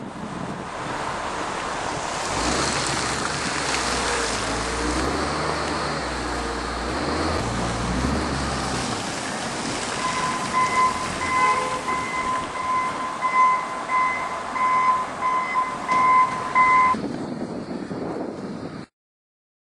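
Wind noise on the microphone over a snowbound street, with a vehicle engine rumbling low for several seconds. About halfway through, a high electronic beeping starts and pulses for about seven seconds, then stops. The sound cuts out completely for about a second near the end.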